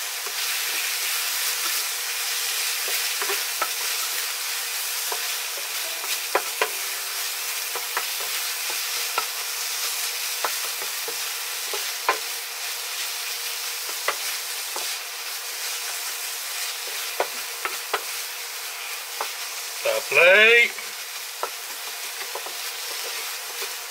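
Onion paste and tomato purée sizzling in a hot frying pan, stirred with a slotted wooden spatula that scrapes and knocks against the pan in scattered clicks. Near the end a brief, louder sound slides up and down in pitch.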